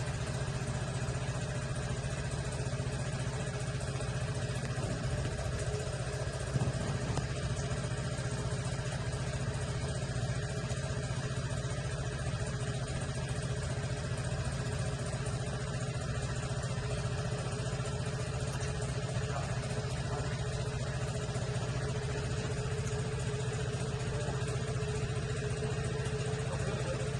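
A motor running steadily with a low, even hum and several steady tones above it, and a brief knock about six and a half seconds in.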